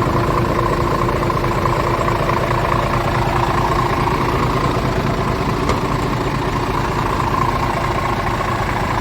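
Scania G500 tipper truck's 13-litre inline-six diesel engine idling steadily.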